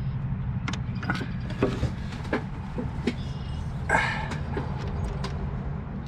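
Scattered sharp clicks and light knocks from hands and tools working at fuel injector wiring connectors, with a brief scraping rustle about four seconds in, over a steady low hum.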